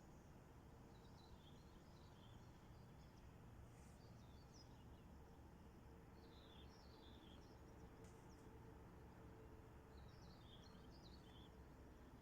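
Faint birdsong: a small songbird singing short, high chirping phrases four times, a few seconds apart, over a faint low outdoor rumble.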